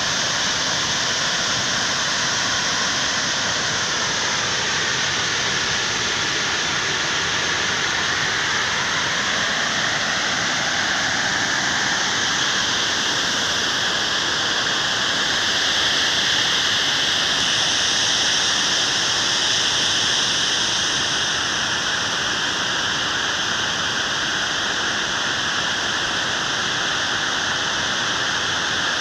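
Waterfall: a steady rush of falling water, its tone shifting slowly.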